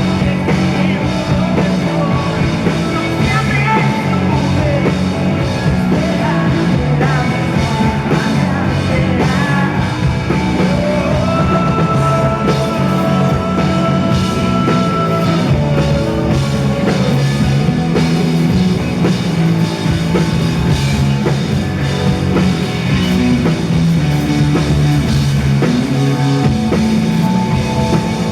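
Rock band playing live: drum kit, bass and guitars with singing, at a steady beat.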